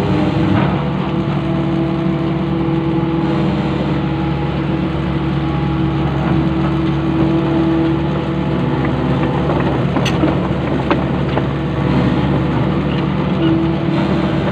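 Long-reach excavator's diesel engine running steadily, with a few short clicks about ten seconds in.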